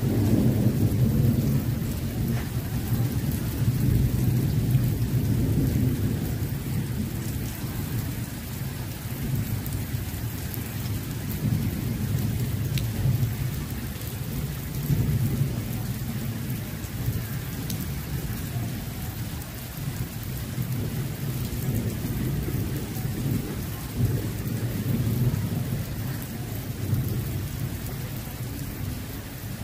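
Heavy rain pouring onto a flooded street, a steady hiss over a continuous low rumble that swells and fades.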